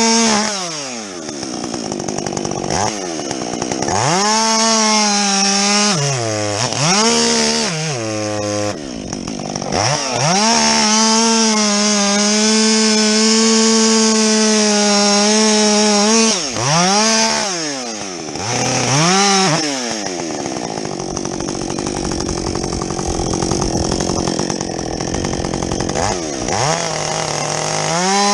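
Muffler-modified Husqvarna 562XP two-stroke chainsaw cutting wood at full throttle, its engine dropping off and revving back up several times between and during cuts. There is a long steady stretch at full revs in the middle, and a rougher, lower-revving stretch near the end.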